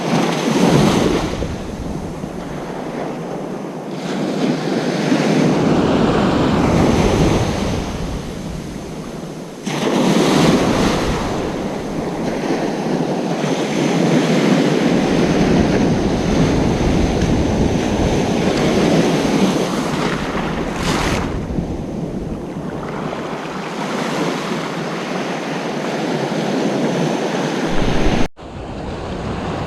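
Ocean surf breaking and washing up a beach, swelling and easing every few seconds. The sound drops out abruptly for a moment near the end.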